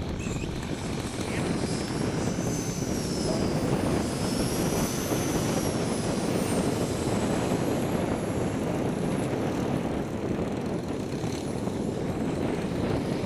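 Propeller engine of a radio-controlled scale Cessna 182 model running in flight, with a high whine that rises and falls twice in pitch during the first half, over a steady low rumble.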